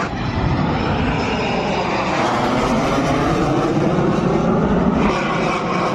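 Military aircraft flying over during an air display, a loud, steady engine noise.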